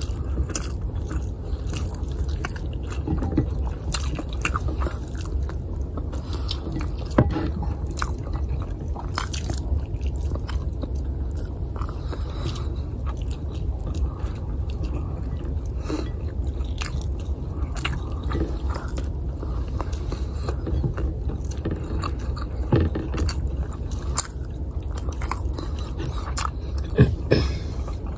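Close-miked chewing and lip-smacking of a person eating fried rice, ham and egg by hand, with small clicks and scrapes of fingers gathering rice on the plate. A steady low hum sits underneath.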